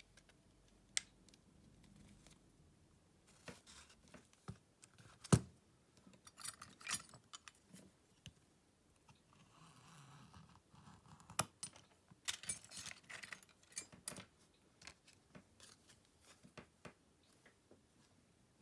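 Small clicks, taps and scrapes of hand tools and phone parts being handled during a smartphone repair. There is a sharp click about five seconds in and bunches of quick clicks a little later and again past the middle.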